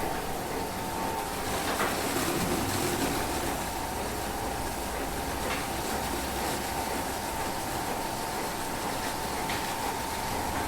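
Train running on rails: a steady noise with a thin, steady whine held throughout and a few faint ticks.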